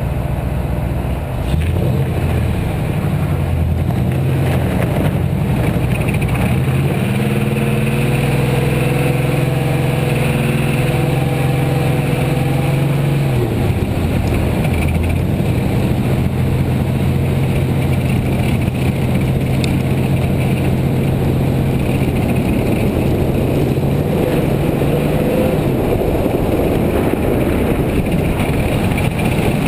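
Car engine climbing in pitch for several seconds, then holding steady; it drops away about halfway through and then holds a slightly higher steady note until near the end, over constant road and wind noise.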